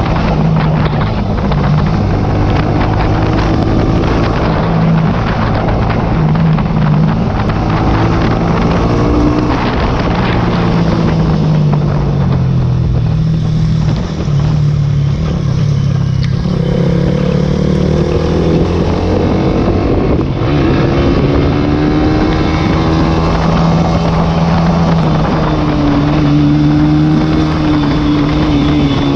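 A small single-cylinder sport motorcycle engine under hard acceleration, its pitch climbing and dropping again and again as the rider works through the gears, with wind buffeting the microphone.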